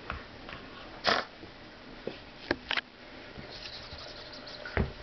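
Boxer puppy making a few short, breathy noises, about five in all, the loudest about a second in and two in quick succession near the middle.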